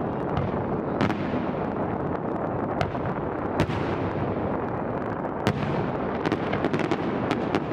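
Fireworks display: a continuous rumble of aerial shell bursts, with sharp cracks about a second in, a couple more in the middle, and a quick cluster of cracks near the end.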